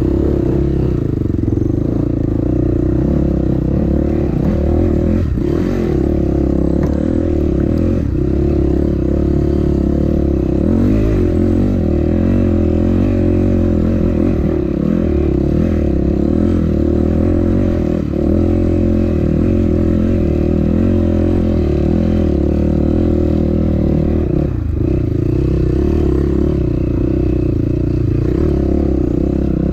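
Dirt bike engine running steadily under load at a nearly constant pitch, with a few knocks and clattering from the bike over rough ground.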